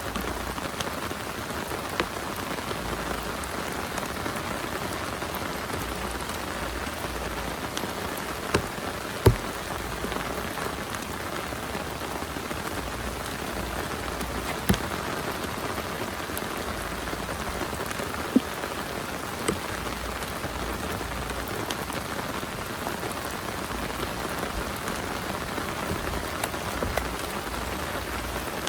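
Heavy rain falling steadily, with a few sharp louder drop impacts standing out now and then.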